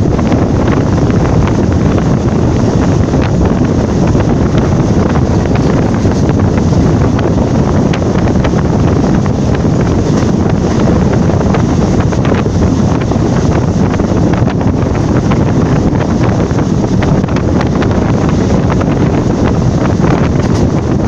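Wind buffeting the microphone over the steady running noise of a moving passenger train, with scattered clicks from the wheels on the track.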